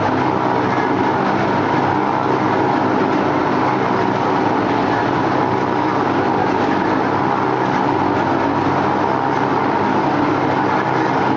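Several motorcycle engines running together at a steady speed, making one dense, continuous drone with no breaks.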